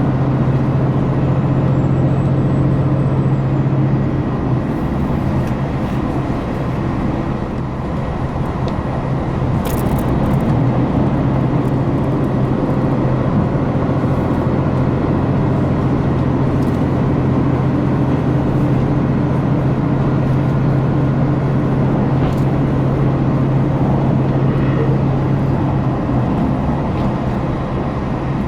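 Diesel engine of a KiHa 261 series diesel railcar under power, a steady low drone heard from inside the passenger car with rail running noise. It eases off briefly a few seconds in, comes back about ten seconds in, and falls away again near the end.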